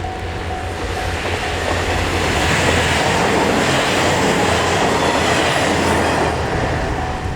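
A four-car KiHa 110 series diesel multiple unit passing close by, its noise building to a peak about three to six seconds in and then fading. A pulsing steady tone is heard at the start and again near the end.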